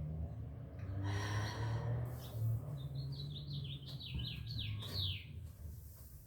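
A songbird singing a quick run of about nine down-slurred notes in the second half, over a steady low background hum.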